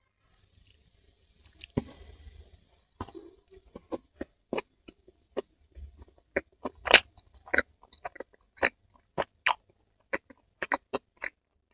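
Close-up eating sounds of a steamed veg momo being bitten and chewed: wet mouth clicks and smacks, irregular and often several a second, loudest about seven seconds in. A soft hiss runs through the first few seconds.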